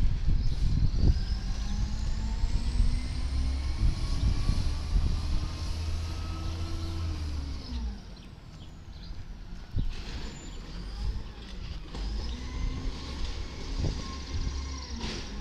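Garbage truck's diesel engine revving up and back down twice: a long climb that drops about halfway through, then a shorter rise and fall near the end, with a high whine rising and falling along with the first rev.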